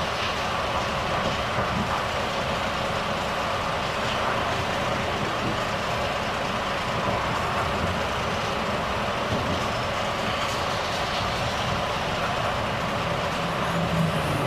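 Volvo FH truck's diesel engine running steadily under way, with continuous road and tyre noise. Near the end a low engine note steps down in pitch.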